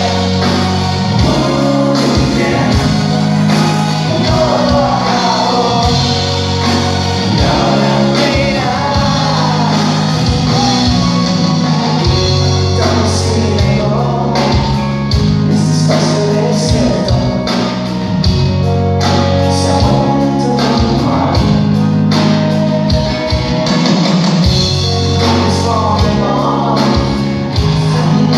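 Live pop-rock band playing with a lead vocal over bass and a steady drum beat.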